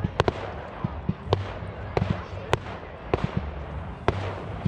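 Fireworks bursting overhead in sharp, irregular bangs, sometimes two in quick succession, over a continuous crackling hiss.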